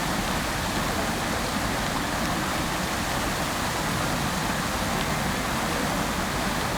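Fountain jets splashing into their basin: a steady, even rush of falling water.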